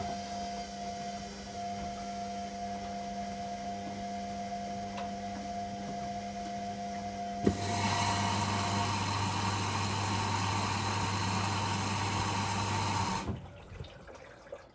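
Washing machine running with a steady hum. About halfway there is a click, then a louder whirring with rushing water for about six seconds, which stops suddenly near the end.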